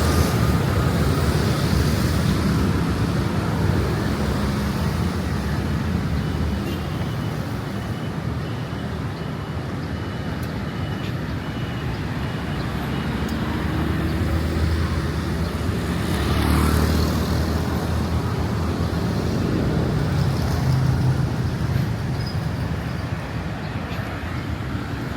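Steady city road traffic passing, with one swell about two-thirds of the way through as a vehicle goes by closer.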